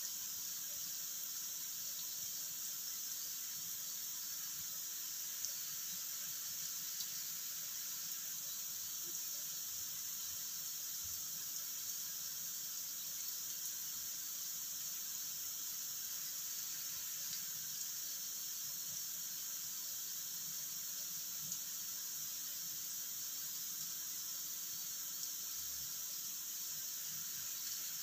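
Cubes of tempe frying in oil in a wok: a steady sizzle with a few faint pops.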